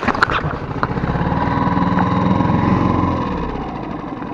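Small boat outboard motor running steadily, easing off a little in speed after about three seconds.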